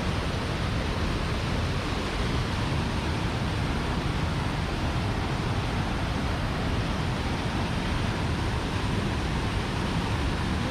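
Waterfall in full flow after heavy rain: a steady, unbroken rush of falling water.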